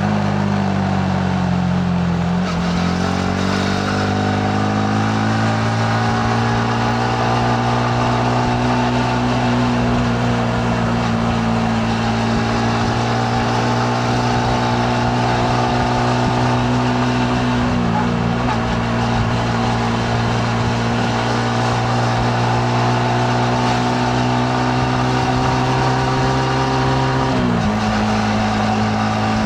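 Yamaha MT-15's single-cylinder engine under way, heard from the rider's seat: its pitch falls over the first couple of seconds, then climbs slowly and steadily, dips briefly about two-thirds of the way through and drops abruptly near the end. A steady rush of wind and road noise runs underneath.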